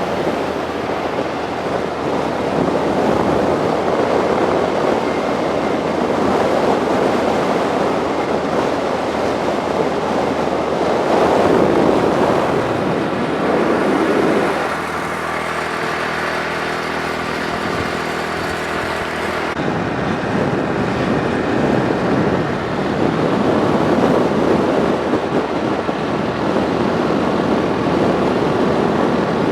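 Wind rushing over the microphone of a moving motorcycle, mixed with road and engine noise. A steadier engine hum stands out for a few seconds in the middle.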